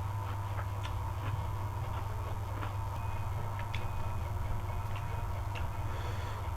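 Mukbang eating sounds: irregular clicks and crunches of a spoon on a plate and chewing, over a steady low hum.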